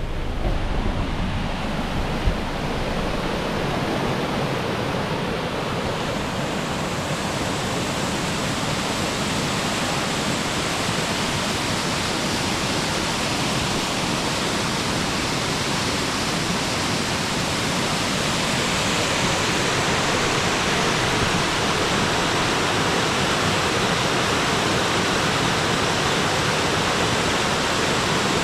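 Alpine waterfall: a steady, loud rush of falling water, with a brief thump about two seconds in. The rush grows brighter and fuller about six seconds in.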